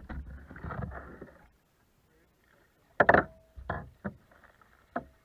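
A short rush of noise, then a cluster of sharp knocks and a few single thumps against a kayak's hard plastic hull as gear and the fish are handled.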